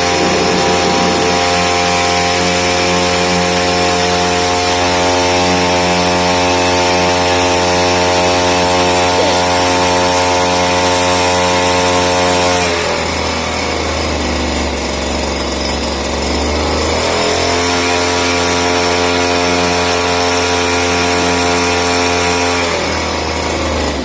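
A 55cc boat motor running steadily at speed on test. About halfway through its note changes for a few seconds, then it settles back, and it stops near the end.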